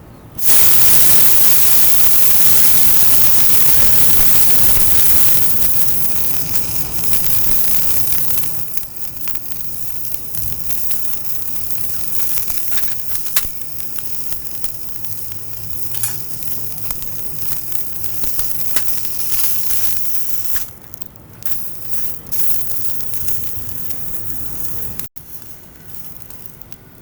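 Food sizzling on a hot titanium grill plate over a small fire pit: a loud hiss that starts suddenly, eases off after several seconds, then carries on softer with scattered crackles and pops, and cuts off suddenly near the end.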